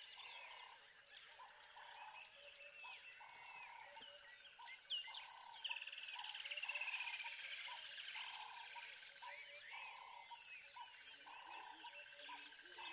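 Faint frog chorus: frogs croaking in short, evenly repeated pulses, with birds chirping over them and a falling trill about six seconds in.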